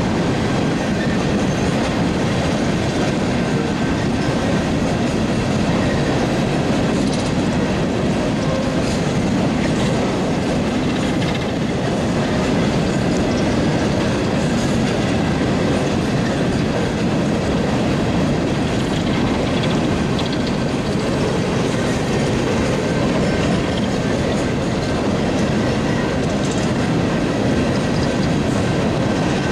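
Freight train of coal gondolas rolling steadily past, with the continuous noise of steel wheels running on the rails.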